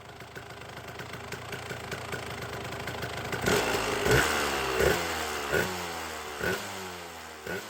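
Motorcycle engine running. It grows louder over the first few seconds, then falls in pitch with five sharp cracks about a second apart, and fades out near the end.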